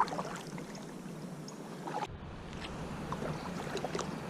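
Water splashing and dripping around a kayak under way on the river, with many small scattered splashes from the paddle and the hull.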